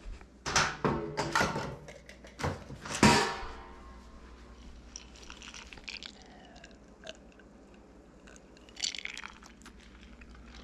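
A few sharp knocks and clinks of cookware in the first three seconds, one ringing briefly, then low kitchen room sound with a faint rattle near the end.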